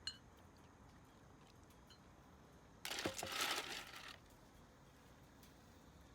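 A short click, then a crinkling rustle about three seconds in that lasts a little over a second, like something being handled or crumpled.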